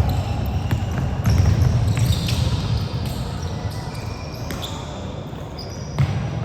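Basketball game in a gym: a ball bouncing on the court and sneakers squeaking in short high chirps, over steady hall noise.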